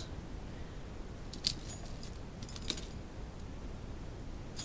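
Light clicking and jingling of small objects being handled, in a few short clusters.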